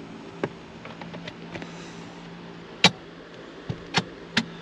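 Plastic steering column cover of a Ram 2500 being pried off: a few sharp clicks and snaps as its clips let go, the loudest a little before three seconds in and two more near the end, over a low steady hum.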